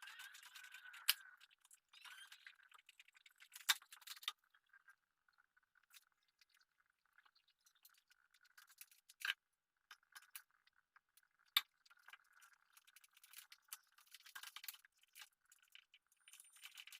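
Faint rattling and scraping of small parts being handled, broken by a few sharp clicks, as electrical wiring and connectors for a cabinet downlight are fitted.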